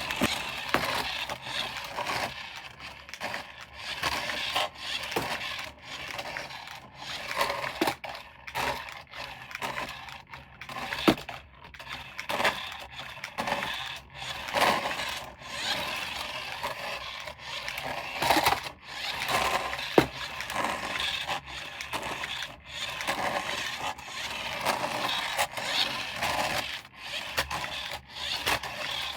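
Hands unpacking and handling plastic toy parts and packaging: a steady run of irregular scrapes, rustles and small clicks, with a sharper click a little before the middle and another about two-thirds of the way through.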